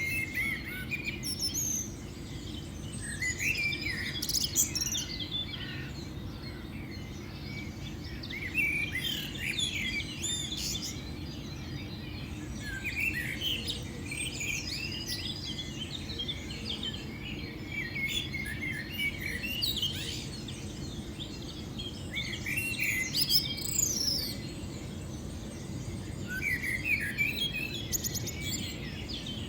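Wild birds chirping and singing: short, quick calls and trills come in scattered bursts throughout, over a steady low background rumble.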